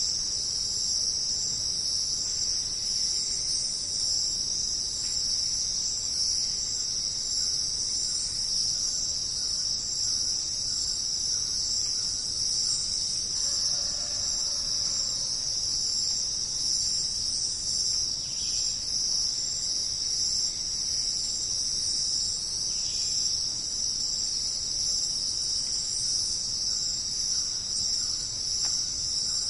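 A steady, high-pitched chorus of rainforest insects, unbroken throughout, with a faint short call about halfway through.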